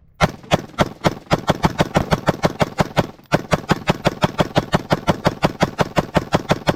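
Gunshots fired in rapid succession, about six a second, with a short break about three seconds in: a magazine being emptied as fast as the trigger can be pulled.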